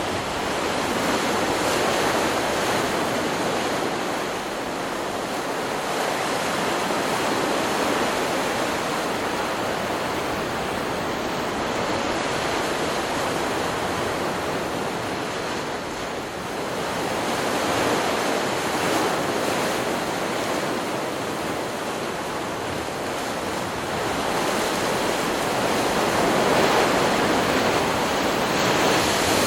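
Ocean surf from a stock beach recording: a continuous rushing of breaking waves that swells and eases every several seconds, loudest near the end.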